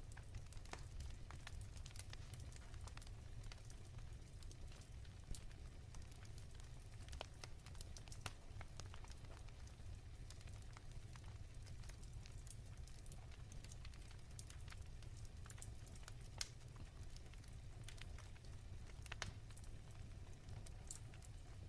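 Wood fire crackling softly: irregular small pops and snaps, a few of them louder, over a steady low rumble.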